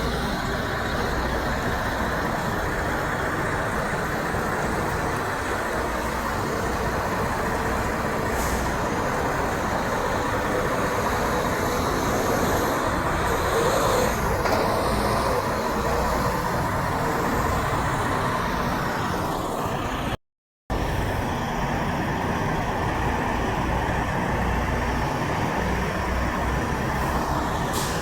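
Semi trucks' diesel engines running amid road traffic noise, a steady rumble with no horn sounding. The sound cuts out completely for under half a second about twenty seconds in.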